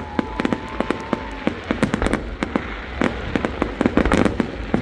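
Fireworks display: a rapid, dense run of bangs and crackles from bursting shells, with a thin whistling tone over the first second and a half.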